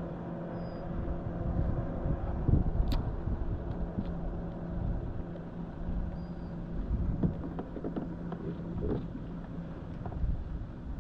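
A steady motor hum with a low, uneven rumble underneath and a few light knocks, with a sharp click about three seconds in.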